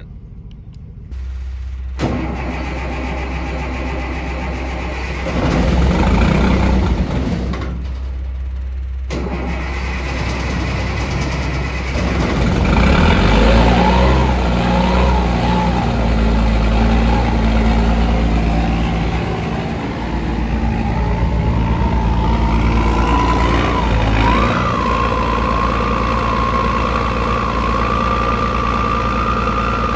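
A vehicle engine starts about a second in and keeps running, with a steady tone that rises slowly in pitch over the second half.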